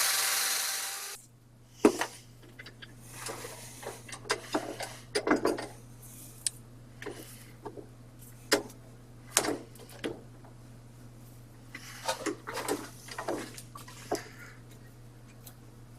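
Power drill spinning a steel wire brush on a rusty steel drill part, cutting off about a second in. Then scattered light clicks, scrapes and knocks of the parts being handled, over a steady low hum.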